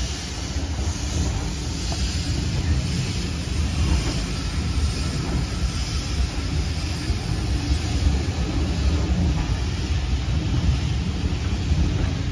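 Passenger coaches of a steam train rolling past on the rails, a steady low rumble of wheels and running gear.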